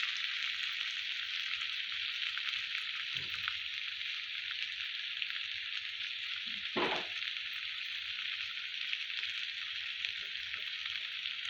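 Okra sizzling steadily as it fries in oil in a pan, with two brief louder sounds about three and seven seconds in.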